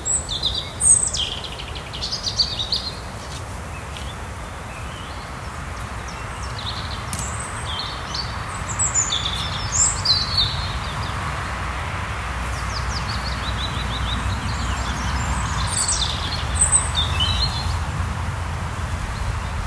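Small songbirds chirping and singing in short, scattered high phrases over a steady low background rumble.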